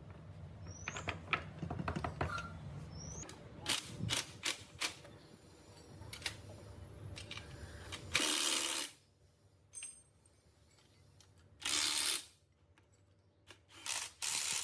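Metal tools clicking and knocking against engine parts during assembly work, a scatter of sharp clinks. About eight seconds in come three short bursts of hiss with near quiet between them.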